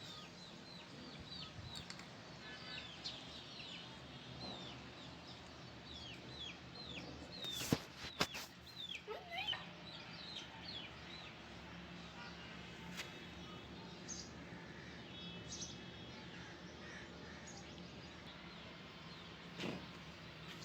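Faint birds chirping, many short falling chirps repeated throughout, with a couple of sharp knocks about eight seconds in.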